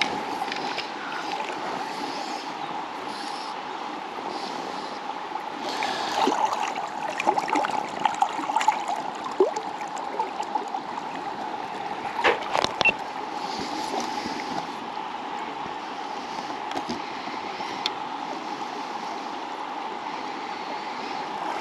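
Steady rushing of river water flowing past. Several short, sharp sounds stand out over it, a cluster about six to nine seconds in and another around twelve seconds.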